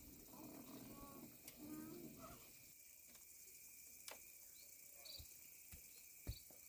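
Faint, steady chirring of insects, with a small child's brief vocal sounds in the first couple of seconds and a few light knocks, the loudest near the end.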